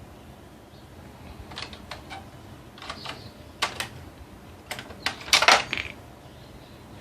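Clicking and clattering of small hard printer parts being handled and knocked together during disassembly: scattered sharp clicks from about a second and a half in, loudest in a quick cluster a little past halfway.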